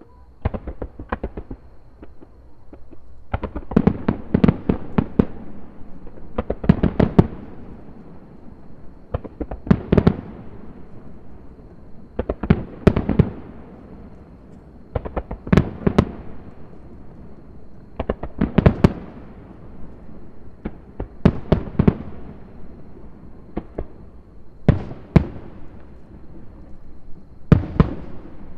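Aerial firework shells bursting: clusters of several sharp bangs about every three seconds, each cluster trailing off into a fading rumble.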